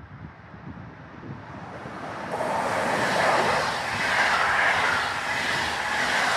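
Train hauled by an electric locomotive passing through a station, its running noise building and then loud from about two seconds in.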